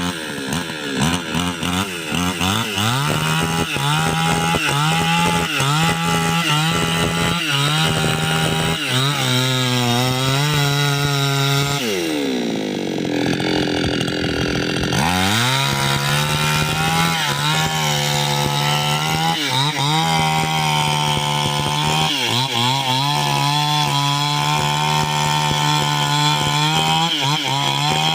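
Chainsaw running at full throttle and cutting into the trunk of a large gmelina tree. About twelve seconds in, the engine eases off and drops in pitch, then revs back up into the cut about three seconds later.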